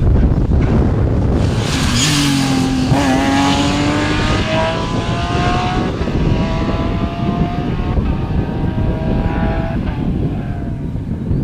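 Rally car engine at hard throttle, pitch climbing and dropping back at each upshift several times, over a dense rushing noise. The sound cuts off abruptly at the end.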